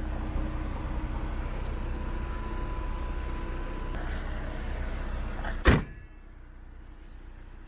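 Idling 3.2-litre V6 of a 2020 Jeep Cherokee, a steady hum. About five and a half seconds in there is one loud slam as something is shut, and after it the engine sound is quieter and muffled.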